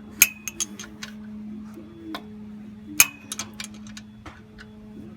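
Metal wrench clicking and clinking against battery terminal hardware in irregular bursts, a cluster of sharp clicks about a quarter second in and another around three seconds in, some with a short ring. A steady low hum runs underneath.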